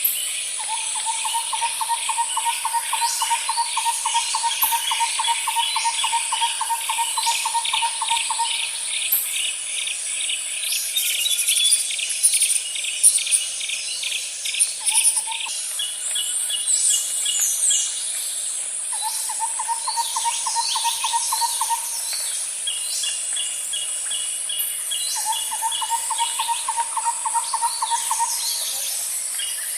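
Outdoor nature ambience of insects and birds. A steady high insect drone runs underneath, long rapid pulsing trills repeat several times, the longest about eight seconds, and short chirps and whistles come and go over them.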